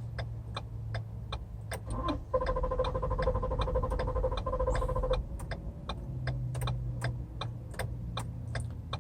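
A Ford's engine cranking for about three seconds, starting about two seconds in, without catching, with a steady buzzing tone over the cranking. The owner suspects the engine is getting no fuel because of a faulty fuel pump. Fast, regular ticking, about three clicks a second, runs throughout.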